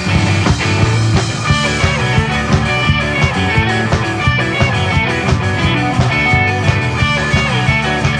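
Rock band music: electric guitars playing over bass and drums, with regular drum hits and no vocals.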